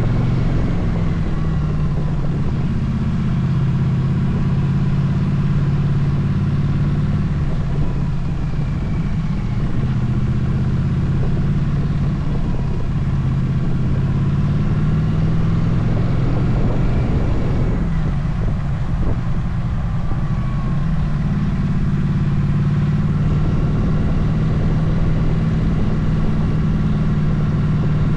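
Motorcycle engine running steadily on the road, its note easing off and picking up again twice.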